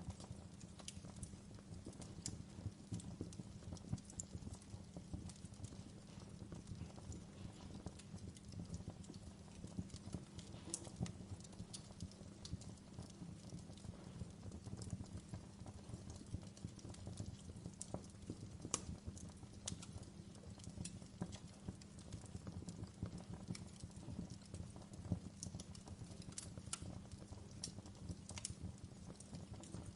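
Wood fire burning in a fireplace: a low steady rumble of the flames with frequent irregular crackles and sharp pops.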